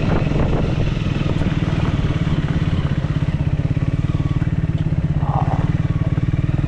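Triumph Speed 400's single-cylinder engine running at low revs on the move, a steady low beat whose separate firing pulses grow more distinct from about three seconds in.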